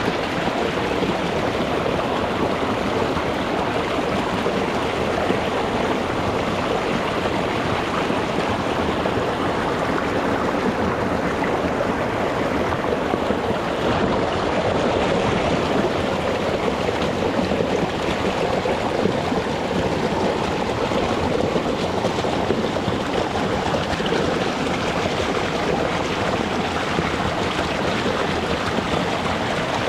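Shallow rocky mountain stream flowing over stones: a steady, even rush of water.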